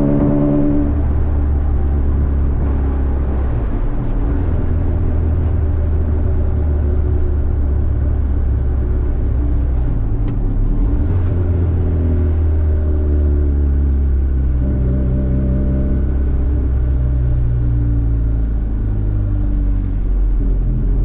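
Honda Civic driving, with a steady low drone of engine and road noise heard inside the cabin. The engine note drops about a second in and climbs again over the second half.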